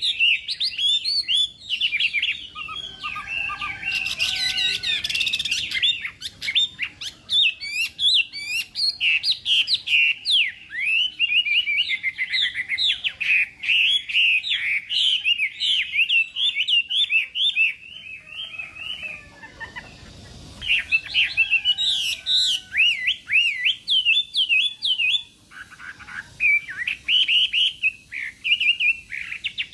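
Chinese hwamei singing a long, rapid, varied song of fast-gliding whistled notes, with a brief lull about two-thirds of the way through.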